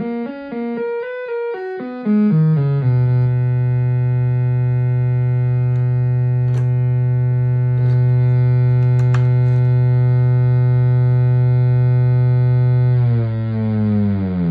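Behringer Neutron analog synthesizer playing a quick run of stepped notes, then holding one low, buzzy note for about ten seconds, with a few faint ticks over it. Near the end the pitch starts to slide.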